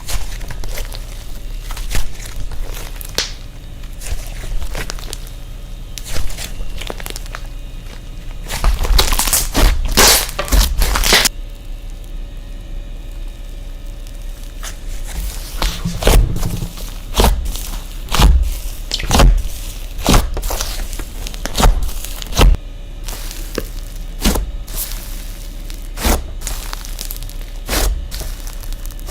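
Slime being pressed and poked by hand, making irregular sharp clicks and crackles, with a dense run of crackling about nine to eleven seconds in.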